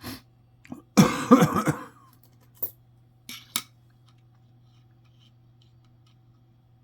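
A person coughing, a short run of harsh bursts about a second in, followed by a few sharp clicks over a faint steady hum.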